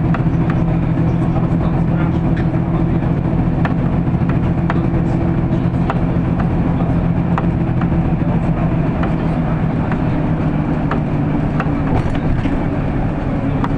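City bus heard from inside the passenger cabin while driving: the engine drones steadily, with frequent short clicks and rattles from the body and fittings.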